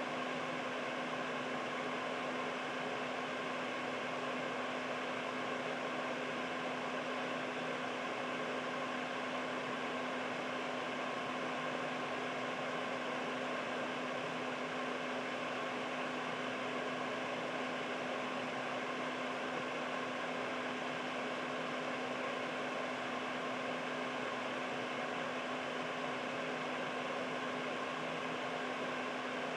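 Household air purifier running steadily: an even rush of fan air with a constant low hum from its motor and a few faint higher tones.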